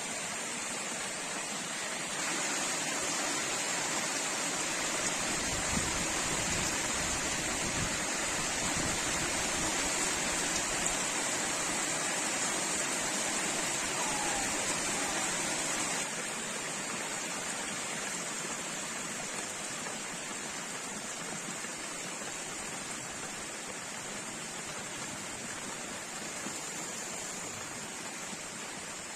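Heavy rain falling, a steady hiss. It gets louder about two seconds in and eases back a little about halfway through.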